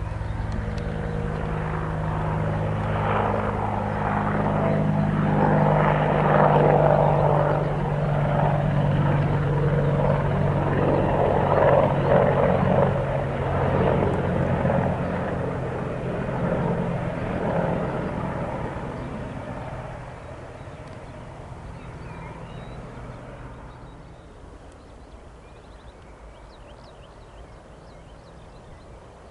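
AH-64 Apache military helicopter flying past: its rotor and engines grow louder, are loudest in the first half, then fade away over the last several seconds as it moves off.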